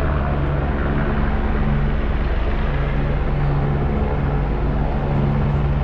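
Helicopter coming in to land close by, its rotor and engine making a loud, steady low drone with a fast pulse.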